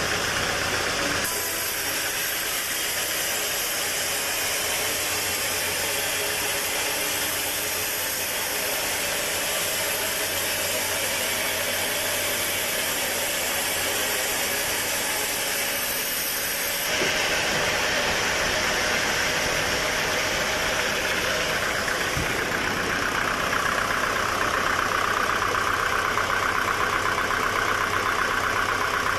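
Sawmill machinery running steadily with an engine-like drone. The sound changes abruptly about a second in and again just past halfway, and a higher whine comes up in the last few seconds.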